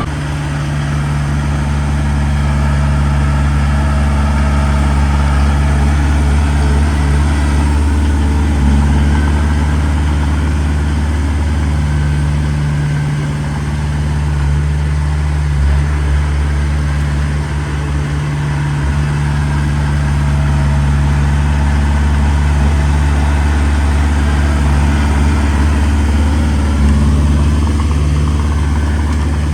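Heavy diesel machine's engine running steadily and loudly, with small rises and dips in pitch as the load changes. It cuts in suddenly at the start.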